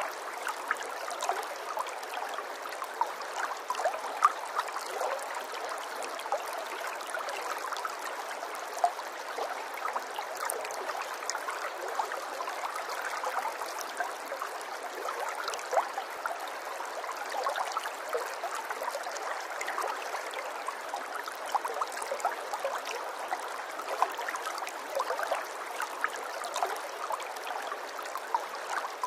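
Running water of a small stream, babbling steadily with many small splashes and gurgles, thin and without any low rumble.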